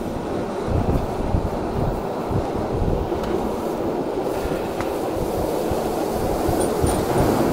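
Rhaetian Railway Bernina line train running uphill, heard from an open-air carriage: steady rumbling noise of wheels on rails, with irregular low knocks.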